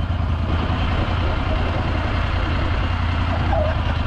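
A vehicle engine running steadily with a deep, even drone.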